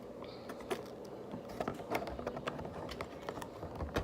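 Scattered light clicks and crinkles of hands handling food packaging.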